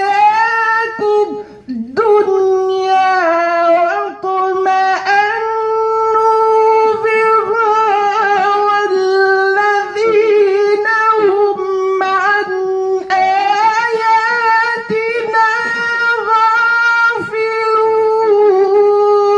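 A man reciting the Quran in the melodic mujawwad style, holding long ornamented notes, with a few brief pauses for breath between phrases.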